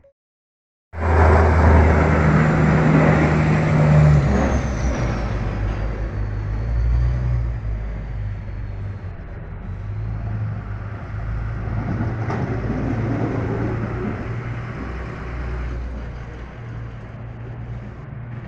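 A motor vehicle's engine running close by, starting abruptly about a second in, with a low steady hum and a faint high whine that slides down in pitch.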